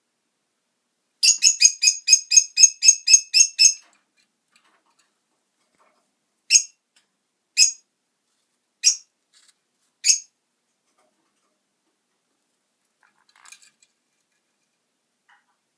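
Green-cheeked conure calling: a quick run of about a dozen short, high chirps at roughly five a second, then four single chirps about a second apart.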